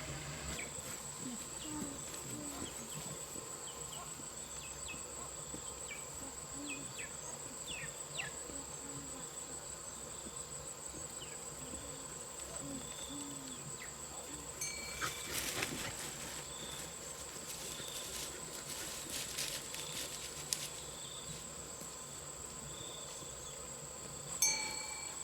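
A steady, high-pitched insect chorus drones without a break. There are scattered light clicks and crackles in the middle, and a brief ringing clink near the end.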